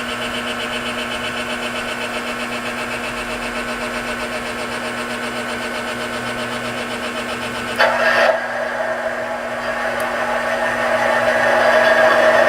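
Small electric motor and vibration mechanism of an operating model-train layout accessory running with a steady buzz and hum. About eight seconds in there is a sharp click, and then a louder, higher whir builds.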